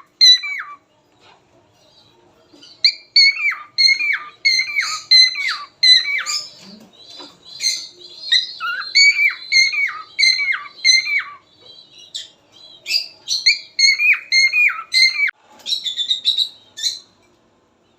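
Cockatiels calling: runs of short, repeated squawking chirps, about three a second, with brief pauses a second or two in, around twelve seconds in, and near the end.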